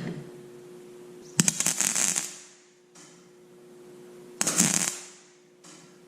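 Electric welding arc crackling in two short bursts of about a second each, with a faint steady hum between them.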